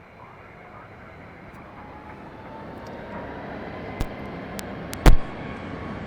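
Jet aircraft engine noise growing steadily louder, with a faint whine in it. A few sharp clicks come about four and five seconds in, the loudest just after five seconds.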